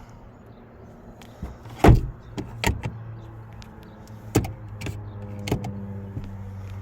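A pickup's sun visor being handled in the cab: about five sharp clicks and knocks, the loudest about two seconds in, over a steady low hum.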